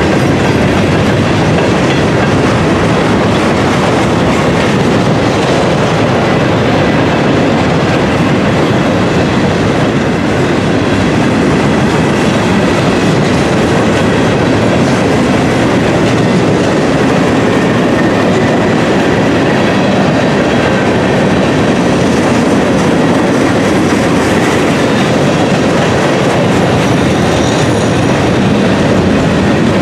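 Loaded freight train of gondola cars rolling past close by, a steady loud rumble with the wheels clattering over the rail joints.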